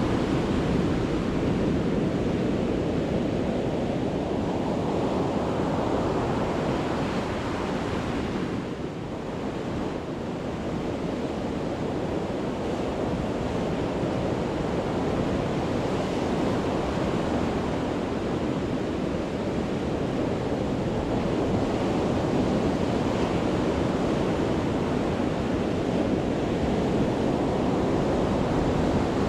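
Surf breaking and washing up on a beach in a continuous roar, swelling and easing, with a short lull about nine seconds in. Wind buffets the microphone.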